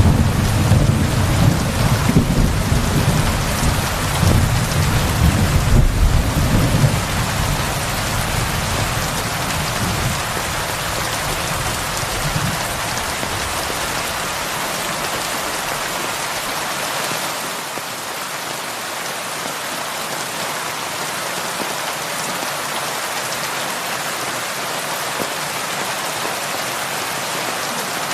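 Heavy rain falling steadily on a roof, an even hiss. A low rolling rumble of thunder underneath in the first half fades out about halfway through.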